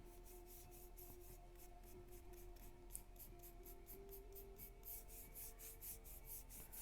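Paintbrush stroked back and forth across a flat craft piece: a faint, soft scratchy rub repeating about four to five times a second, a little louder in the second half.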